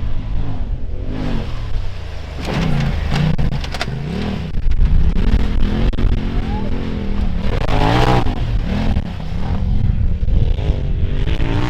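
Polaris RZR side-by-side engine revving up and down again and again as the throttle is opened and lifted, rising and falling in pitch over a heavy low rumble.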